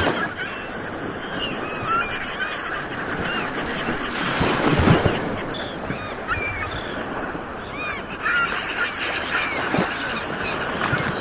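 Ocean surf washing steadily, with a wave breaking and surging about four to five seconds in. Many short bird calls ring out over the waves throughout.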